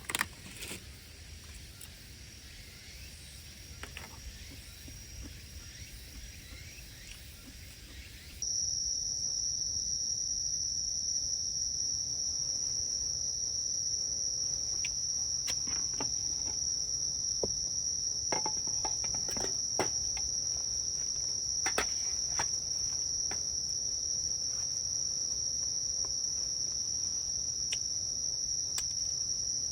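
Crickets chirring in a steady, continuous high-pitched chorus that starts abruptly about eight seconds in, with a few scattered sharp clicks over it.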